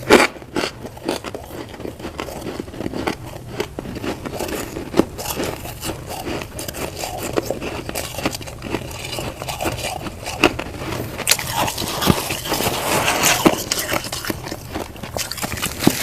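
Crunchy freezer frost being bitten and chewed: a dense, irregular run of sharp crackles and crunches.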